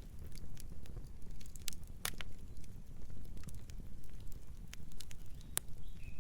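Campfire burning: a steady low rumble of flames with irregular sharp crackles and pops of burning wood, one louder pop about two seconds in and another near the end.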